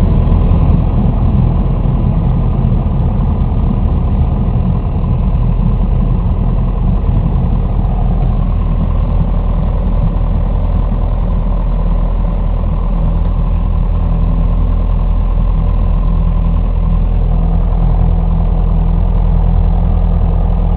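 Airplane engine noise during a landing: a loud, steady low drone with several humming tones, one more low hum joining about halfway through.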